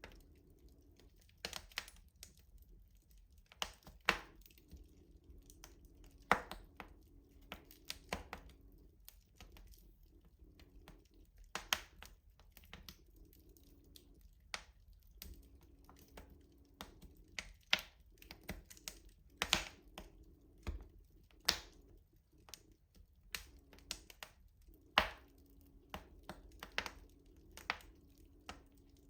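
Wood fire crackling in a rustic stove: irregular sharp pops and snaps, several much louder than the rest, over a faint low hum that comes and goes.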